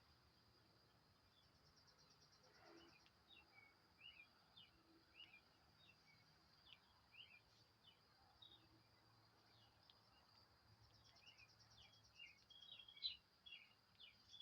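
Faint songbird chirps: many short, quick notes, thickest near the end, with a brief rapid trill twice, over a steady high-pitched tone.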